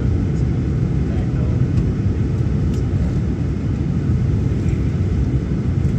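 Steady low rumble inside the cabin of a Boeing 737-900ER on the ground after landing, from its CFM56-7B engines running and the airframe rolling.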